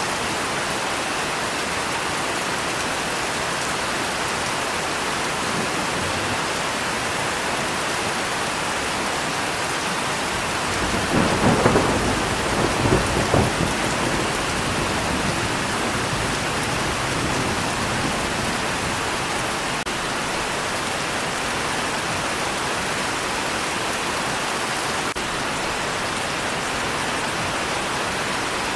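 Steady heavy rain with a clap of thunder about eleven seconds in that rumbles in several peaks for about three seconds before fading back into the rain.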